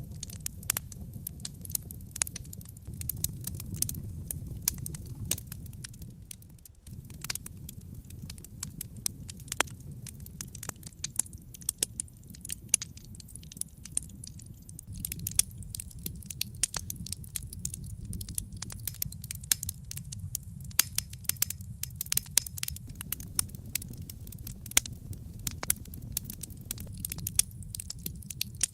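Wood fire in a fireplace crackling and popping, with many sharp snaps over a low steady rumble of the flames; the pops come thicker in the second half.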